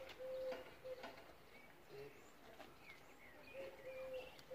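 Faint bird calls: a few short, steady low notes near the start and again near the end, with brief higher chirps in between.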